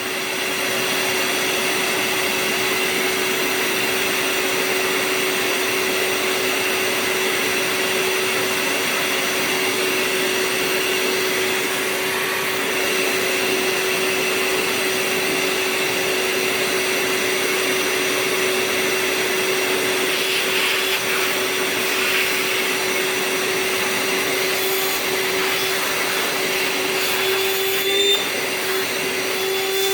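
Hart 20-volt cordless shop vacuum running steadily: a rush of air with a constant motor whine, with a brief knock and a slight rise in the whine near the end.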